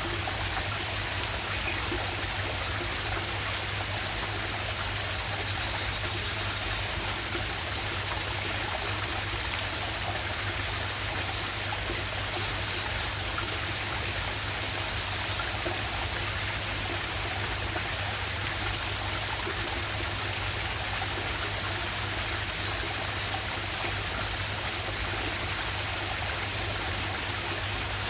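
River waterfall and stream running steadily, an even, unbroken rush of falling water.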